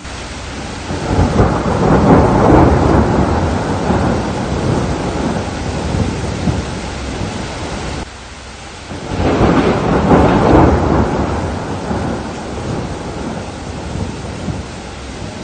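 Steady rain with two long rolls of thunder: the first swells about a second in and cuts off suddenly around eight seconds, the second builds about nine seconds in and slowly fades.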